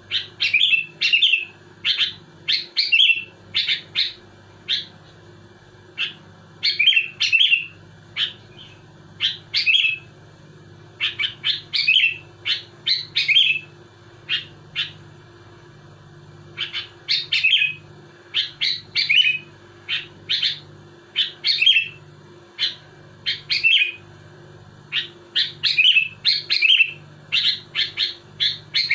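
Sooty-headed bulbul singing loudly and insistently: clusters of short, quick whistled notes come in rapid phrases every second or two, with only brief gaps between them.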